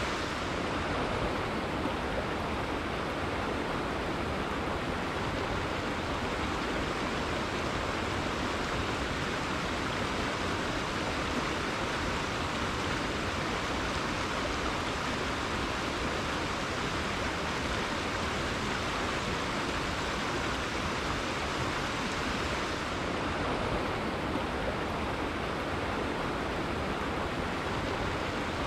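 River water flowing steadily, a constant rushing of current with no breaks or splashes standing out.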